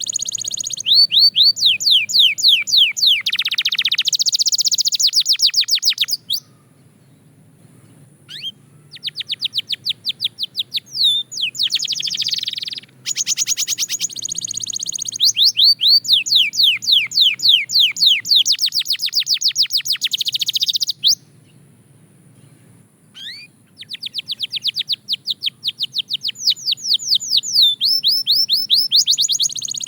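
Canary singing in long phrases of fast, evenly repeated trilled notes, high-pitched, three bursts of song with two short pauses between them.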